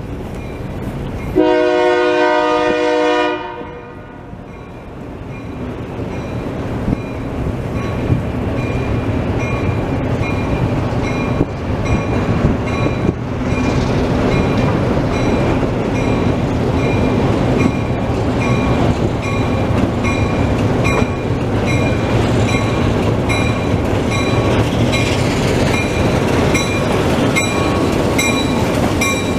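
Diesel switcher locomotives of a freight train blow one horn blast of about two seconds near the start. The train's engine and rail noise then grows louder as it approaches and draws alongside, with a bell ringing steadily throughout.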